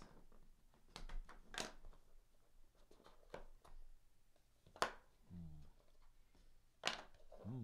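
Handling of trading cards and their packaging: a few sharp clicks and taps spread out in an otherwise quiet room, with a brief low murmur of voice twice.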